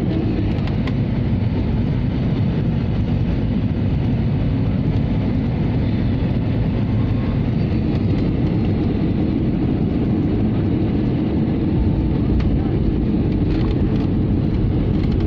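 Jet airliner noise during landing: a steady deep rumble that grows a little louder near the end, with a few faint clicks.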